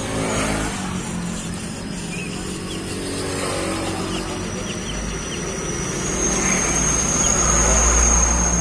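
Motor traffic passing close by, a low engine rumble that grows louder in the second half, with short high chirps of small birds over it.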